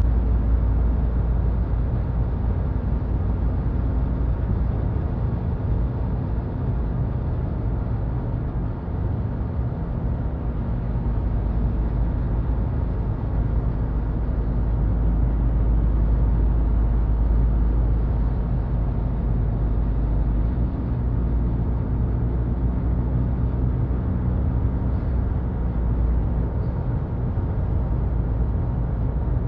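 Steady road and engine rumble of a vehicle driving along a highway, heard from inside the cabin.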